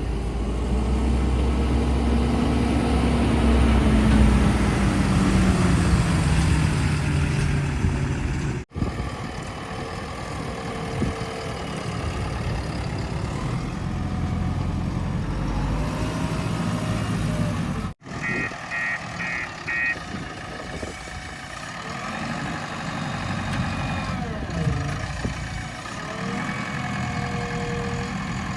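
Diesel engines of heavy machinery running and revving, the pitch rising and falling, in three stretches split by abrupt cuts. Just after the second cut comes a quick run of four short beeps.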